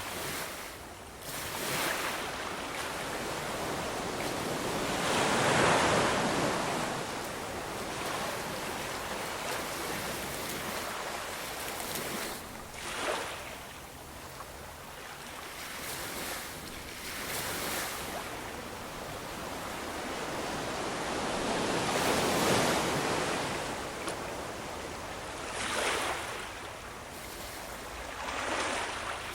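Ocean waves breaking and washing on a shore, rising to louder crashes about every few seconds, with a steady hiss of surf between them.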